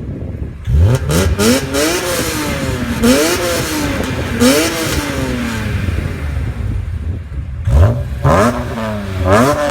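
BMW E46 straight-six with an aftermarket exhaust being revved in quick free-revving blips, the pitch rising sharply and falling back each time. One run of blips starts under a second in and settles back, and a second run starts near the end.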